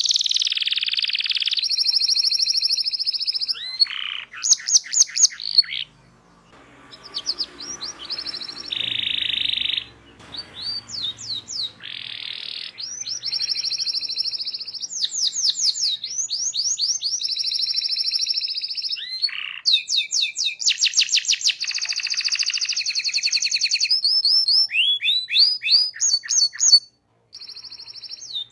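Domestic canary singing a long, fast song: rapid trills and buzzy rolls alternating with quick runs of sweeping chirps. The song drops off briefly a quarter of the way in and cuts out for a moment near the end.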